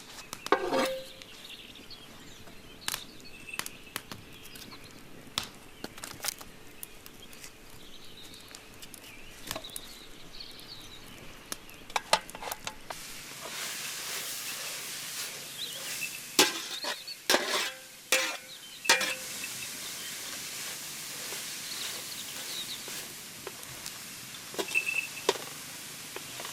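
Cooking in a pot over a fire: scattered clinks and scrapes of a utensil against the pot, then from about halfway a steady sizzle of food frying in hot oil, with a burst of louder clattering a little later.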